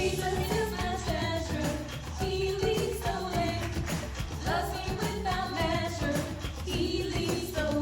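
Pop-style children's worship song with sung melody over a steady beat and bass backing track.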